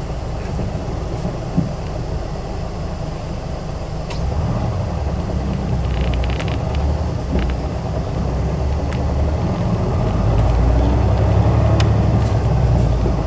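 Isuzu Erga city bus (PJ-KV234L1) diesel engine running while the bus is under way, growing louder about ten seconds in as it pulls harder. A few light rattles about six seconds in.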